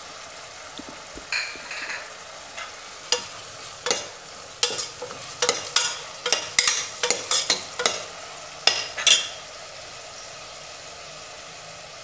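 Onion-tomato masala frying in oil in a stainless steel pot, with a steady sizzle, while a steel ladle stirs it, scraping and clinking against the pot in a run of quick strokes. The stirring stops about nine seconds in, leaving only the sizzle.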